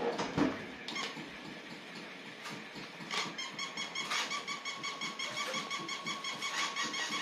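A battery-powered toy running, giving a steady, rhythmically pulsing electronic tone, with a short louder sound just at the start.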